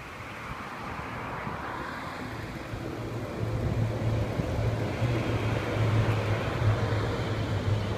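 Road traffic: a motor vehicle's engine hum and tyre noise, growing louder about three seconds in and staying close.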